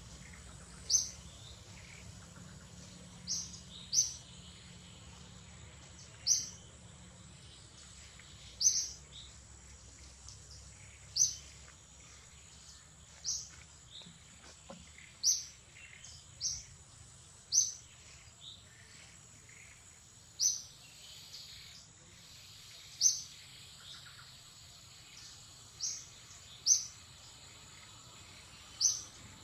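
A bird repeating a short, sharp, high chirp every one to three seconds, over a steady high-pitched insect drone.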